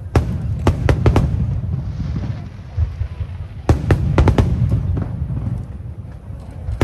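Aerial firework shells bursting: a quick cluster of sharp bangs near the start and another a little past halfway, over a continuous low rumble.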